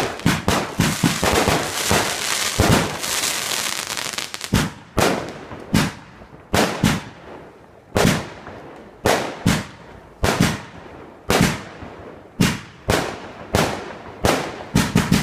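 Fireworks display: a dense barrage of bangs and crackle for the first few seconds, then single firework bursts about once a second, each with a trailing echo.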